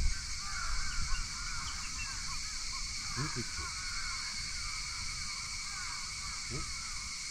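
Birds calling: dense short chirps throughout, with a lower call about three seconds in and again near the end, over a steady high-pitched hiss.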